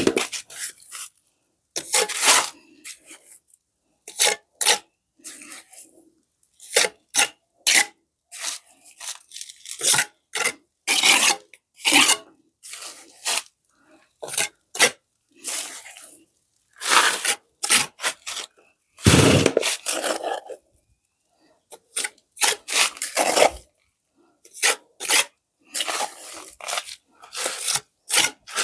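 Mason's trowel scraping and spreading wet mortar in repeated, irregular strokes with short pauses between them.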